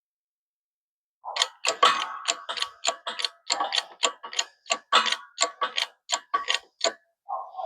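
Hydraulic press being pumped: a steady run of sharp metallic clacks, about two and a half a second, each ringing briefly, as the jack handle is worked to push a U-joint cap out. Near the end a short breath or sigh.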